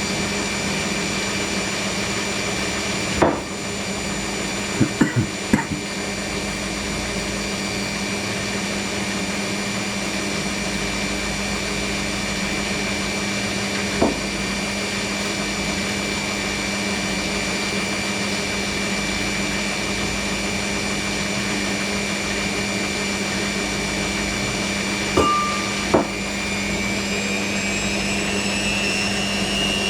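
Hoover NeXtra washing machine spinning its drum, its motor giving a steady hum and high whine, with a few sharp knocks. Near the end the whine starts to rise in pitch as the drum speeds up.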